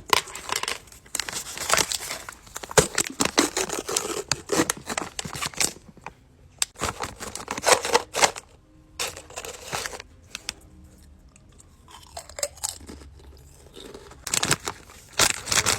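Close-up crunching and chewing of Pringles potato crisps: bursts of sharp crunches with bites and chews, a quieter stretch of softer chewing past the middle, then loud crunching again near the end.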